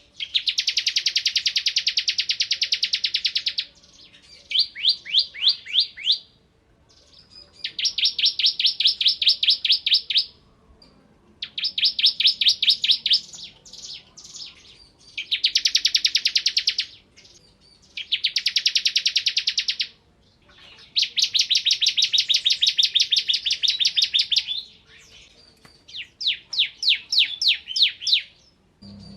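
Ciblek kristal (bar-winged prinia) singing its fast machine-gun trill. High notes repeat rapidly in bursts of two to three seconds, broken by short pauses.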